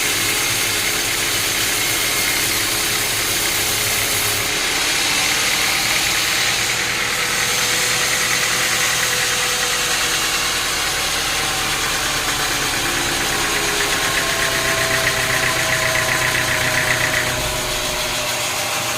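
Sawmill machinery running steadily: a continuous engine drone under a dense noise, with faint tones slowly shifting in pitch.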